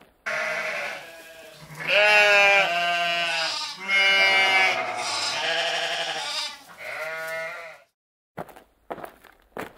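Sheep bleating: about five long, wavering calls one after another, some overlapping, the loudest two or three seconds in. A few short clicks follow near the end.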